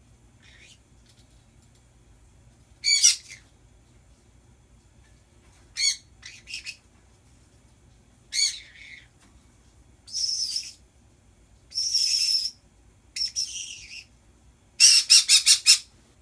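Pet birds squawking and screeching: separate short, high calls every second or two, ending in a quick run of about five notes.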